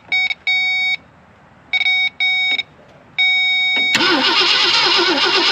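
Several short electronic beeps, then about four seconds in the starter of a 1965 Ford Thunderbird's 390 V8 begins cranking the engine with a steady, even rhythm to see whether the mechanical fuel pump will draw gas. The engine does not fire, because the ignition coil has no power.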